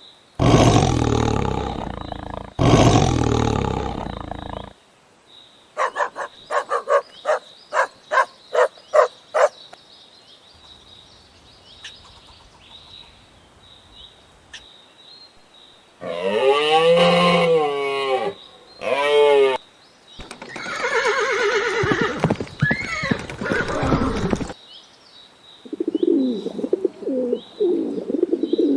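A series of separate farm animal calls cut one after another: two long loud calls, then a quick run of about ten short calls. Then come wavering pitched calls, another long call, and near the end a low stuttering call.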